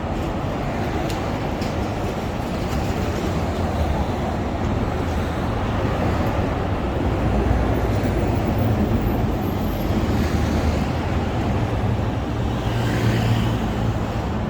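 Steady low rumble of passing city traffic, growing a little louder in the second half.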